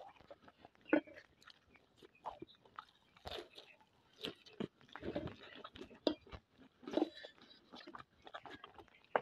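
Close-up mouth sounds of a person biting and chewing a breaded cordon bleu cutlet: irregular soft crunches and wet clicks.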